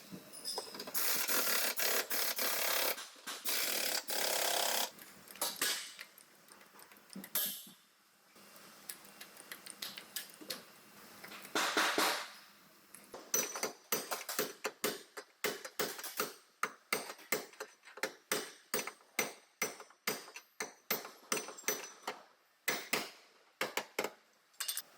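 Auto body repair work. A few seconds of continuous noisy tool sound, then a long run of sharp taps, about three a second, typical of hammering out a dented body panel.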